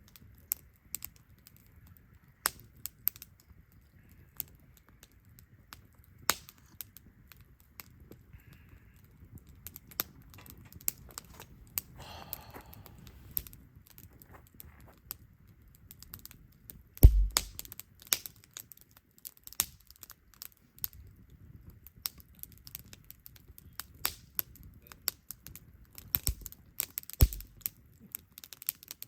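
Wood fire crackling, with frequent sharp snaps and pops over a low rumble. Two heavier thumps about 17 s and 27 s in, the first the loudest.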